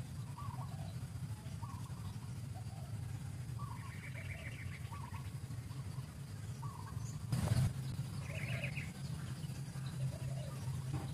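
Birds calling in the background: short repeated call notes with two brief higher trills, over a steady low hum. A short knock or rustle comes about seven seconds in.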